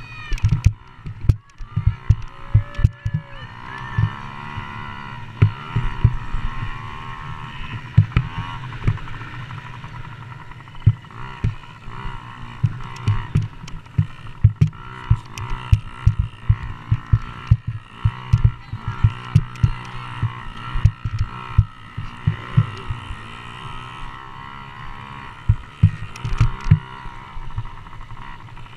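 Motocross dirt bikes' engines running during a race: a steady engine drone that rises and falls in pitch, broken by many sharp low thumps.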